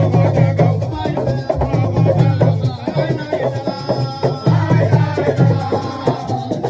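Percussion music: drums played in a fast, dense rhythm with rattling shaker-like strokes, running without a break.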